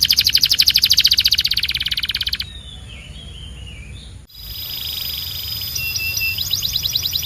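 Domestic canary singing: a loud, fast trill of about fourteen notes a second for two and a half seconds, then softer twittering. There is an abrupt break about four seconds in, after which the song resumes with a steady high whistle and a new trill of quick rising notes.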